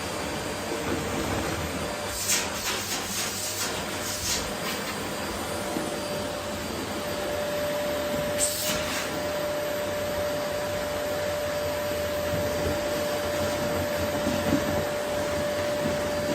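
Vacuum cleaner running steadily over a wooden floor as a continuous whooshing hum. A steady whine sets in about six seconds in, and there are brief bursts of sharper noise between two and four seconds in and again near eight seconds.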